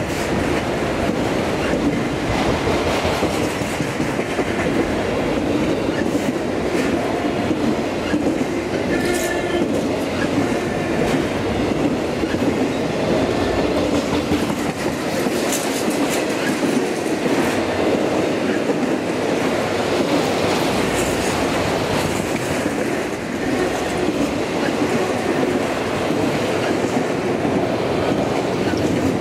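Freight train of enclosed autorack cars rolling past close by: a steady rumble of steel wheels with clatter over the rail joints, and a brief high wheel squeal about nine seconds in.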